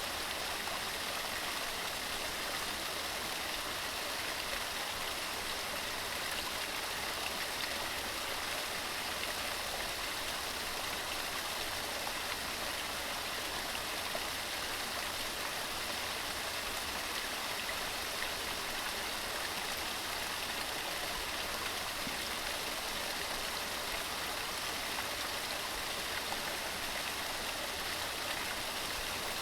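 Waterfall: a steady rush of water tumbling over rocks, an even unbroken hiss with no changes.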